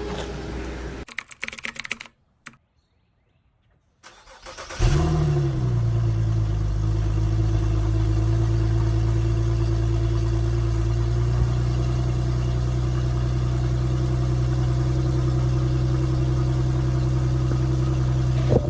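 A few clicks, then a short silence. About four and a half seconds in, an Infiniti G37's 3.7-litre V6 starts, still on its stock muffled exhaust; the revs flare briefly, then settle into a steady idle.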